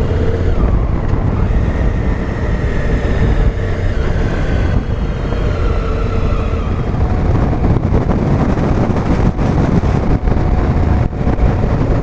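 Honda Africa Twin CRF1000L motorcycle riding at road speed: steady engine running with a pitch that drifts slightly, mixed with wind noise on the microphone that turns gustier in the second half.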